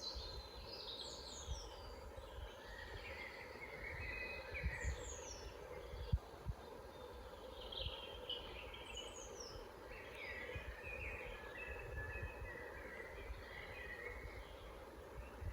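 Several woodland birds singing and calling at once, a mix of chirps, warbled phrases and quick falling whistles, over a steady low rumble with a few soft low thuds near the middle.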